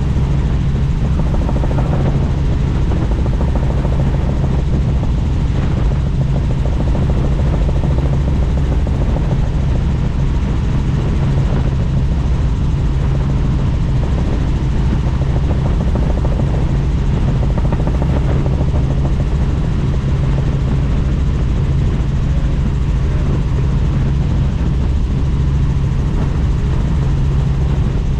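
Helicopter in flight heard from on board: a loud, steady drone of rotor and engine with a low hum under rushing noise.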